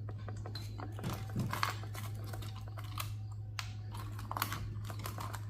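Scattered light clicks and taps of small metal and plastic server parts being handled and worked loose by hand, over a steady low hum.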